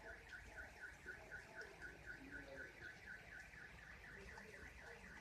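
Faint car alarm warbling, a tone that rises and falls about four times a second, over a soft hiss of rain.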